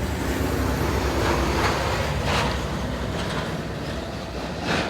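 A steady low rumble of passing vehicle traffic, with a few brief scuffs or rustles over it.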